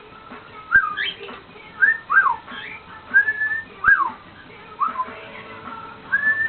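Pet cockatiel whistling: a string of short whistled notes that swoop up and down, some rising sharply and others falling.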